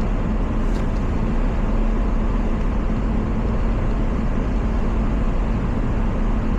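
Steady road and engine noise inside a moving car's cabin on a snowy, slushy road: a low rumble with a constant hum.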